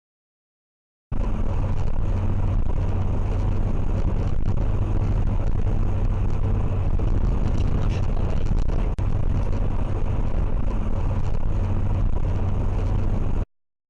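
Steady vehicle rumble and road noise, with no clear impact. It starts abruptly about a second in and cuts off just before the end.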